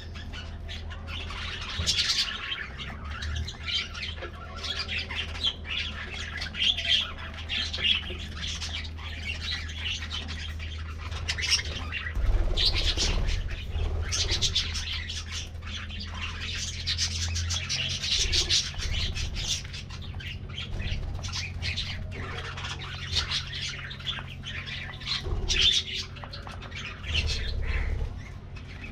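A flock of budgerigars chirping and chattering continuously, many high twittering calls overlapping, with a steady low hum underneath.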